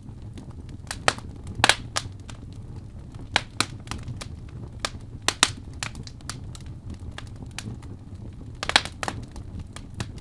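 Wood fire burning in a fireplace: sharp, irregular crackles and pops over a steady low rumble of flames, with a few louder snaps about a second and a half in and near the end.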